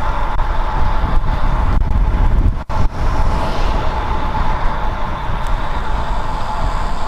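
Wind rushing over the camera microphone and road noise from a bicycle riding at speed, with the sound cutting out for a split second about two and a half seconds in.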